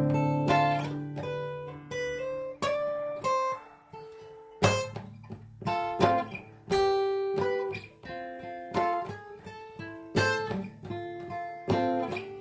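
Acoustic guitar playing alone: picked notes and strummed chords, each one struck and left to ring and die away.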